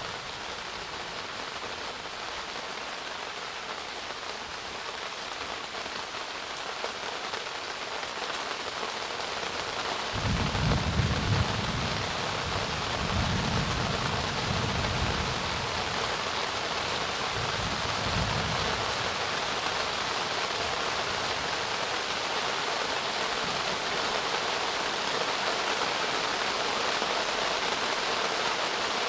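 Steady heavy rain that grows louder about a third of the way in, with rolling thunder rumbling low for several seconds in the middle.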